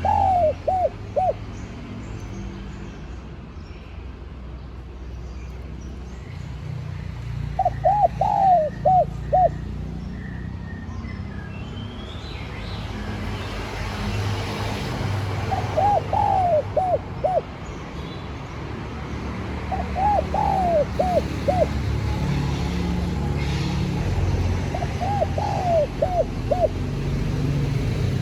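Spotted dove cooing: five short phrases of four or five quick coos each, spaced several seconds apart, over a steady low rumble.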